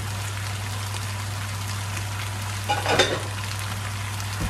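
Chicken pieces, carrots and potatoes frying in oil in a nonstick wok on a gas hob: a steady sizzle over a low hum. A short, louder sound comes about three seconds in.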